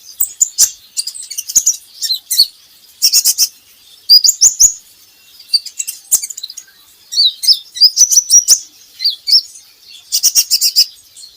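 Kolibri ninja (Van Hasselt's sunbird) song: quick bursts of very high, thin chirps and sharp clicking trills, grouped in clusters with short pauses between them.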